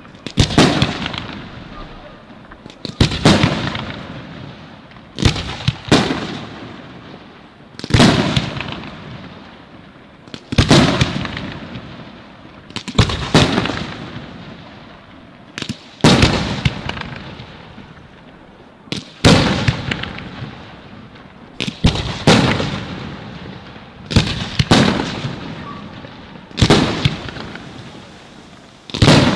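Aerial firework shells bursting in a steady sequence: about a dozen loud bangs, roughly every two to three seconds and sometimes two in quick succession, each trailing off over a second or two.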